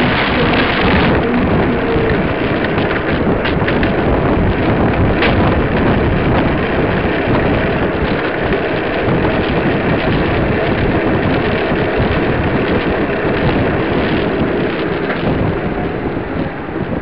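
Wind buffeting the microphone: a loud, steady rumbling noise with no clear tones, easing a little near the end.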